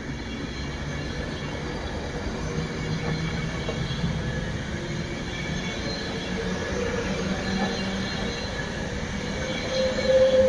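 An Avanti West Coast passenger train running past on the rails: a steady rumble of wheels and carriages, with a higher tone creeping in and getting louder near the end.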